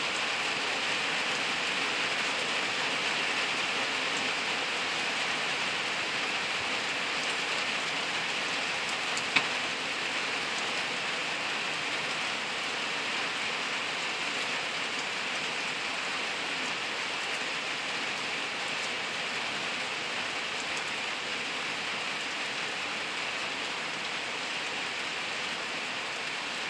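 Steady rain shower falling on leaves and forest undergrowth, an even hiss that eases slightly toward the end. A single sharp click comes about nine seconds in.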